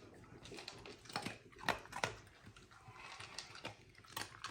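A Swedish Vallhund eating after being released from a sit-and-stay, with faint, scattered crunching clicks.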